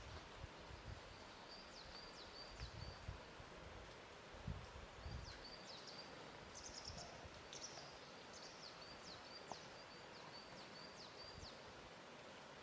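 Faint lakeshore ambience: water lapping softly at the shore, heard as a few low soft splashes in the first half, over a steady quiet hiss. A bird repeats short high chirps that fall in pitch.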